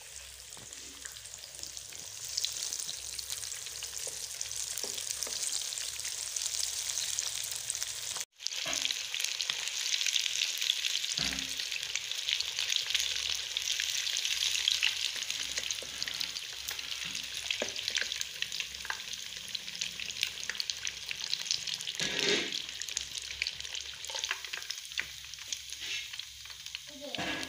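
Gram-flour-battered fish pieces deep-frying in hot oil in a wok: a steady sizzle, with small scrapes and taps of a slotted spatula as the pieces are turned and lifted. The sound cuts out for an instant about eight seconds in, then the sizzle comes back louder for several seconds.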